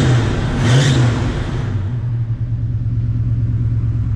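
1965 Pontiac GTO's 389 cubic inch Tri-Power V8 being revved briefly through its dual exhaust: the tail of one quick rev, a second rev that rises and falls in pitch about a second in, then a steady idle from about two seconds in.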